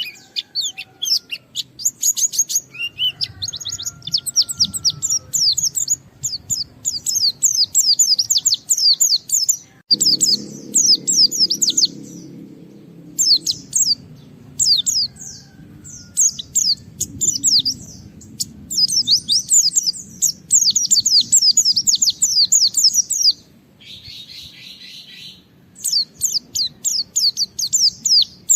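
A white-eye (pleci) sings hard in long runs of rapid, high, downward-sweeping chirps, broken by short pauses. There is a brief buzzy note near the end. This is the loud, insistent song of a bird challenging a rival.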